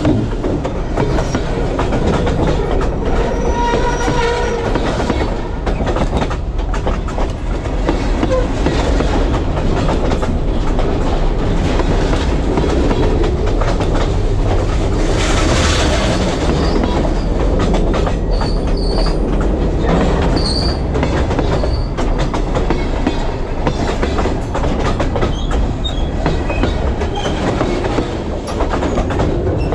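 Freight train cars rolling slowly overhead, heard from between the rails: a continuous loud rumble with steel wheels clicking over the rail joints. A few short high wheel squeals come a little past the middle.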